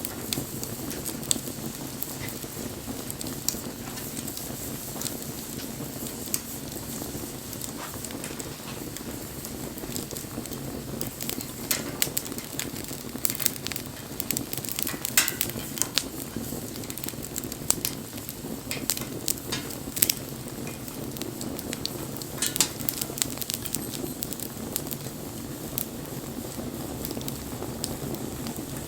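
Wood bonfire burning with a steady low rush of flame and irregular sharp crackles and pops, which come more often in the second half. About halfway through there is a brief hiss.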